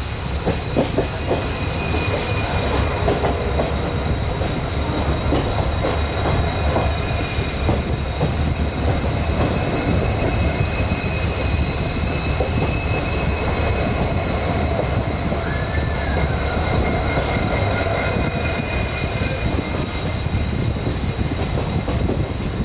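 Passenger train running, heard from on board: a steady rumble of wheels on the rails with a thin, steady high whine over it.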